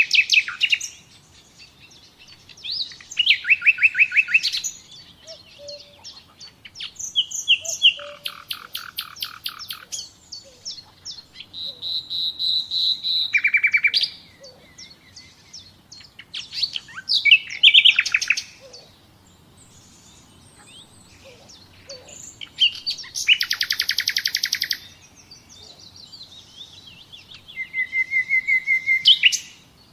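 Songbirds singing: short phrases of rapid trills and quickly repeated chirping notes, a new phrase every few seconds with brief pauses between them.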